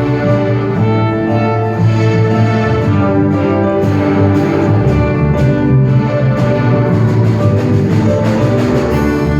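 Orchestral music led by bowed strings, violins and cellos, playing continuously with sustained notes.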